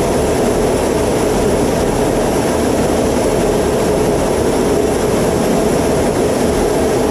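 Jet aircraft engines running, a loud steady rumble with a faint high whine and no change in level.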